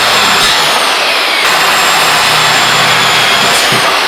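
Handheld circular saw running at full speed and cutting through a wood board, a loud steady whine with a rasping cut.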